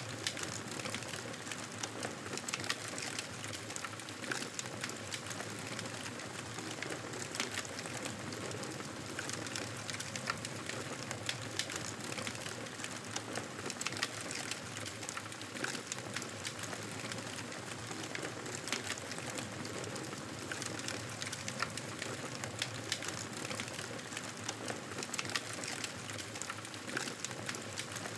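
Campfire burning steadily, wood crackling and popping in frequent sharp snaps over a constant hiss.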